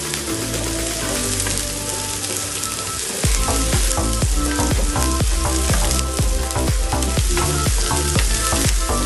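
Chopped onions sizzling as they fry in oil in a nonstick pan, stirred with a wooden spatula, under background music whose steady beat comes in about three seconds in.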